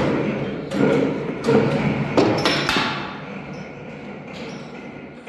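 A run of loud knocks and thuds, about one every half to three-quarters of a second for the first three seconds, then fainter clatter.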